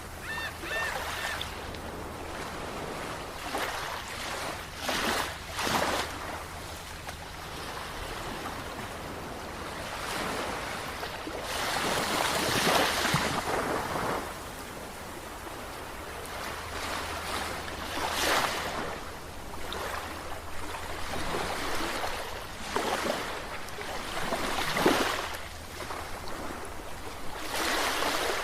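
Ocean surf: waves breaking and washing in, swelling and falling back every few seconds, with the longest, loudest surge around the middle.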